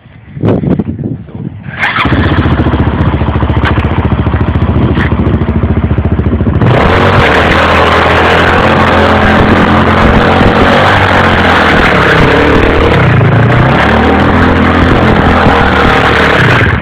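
Single-cylinder engine running hard from about two seconds in, after a few short knocks. About seven seconds in, a loud rushing noise joins it, and both stop abruptly at the end.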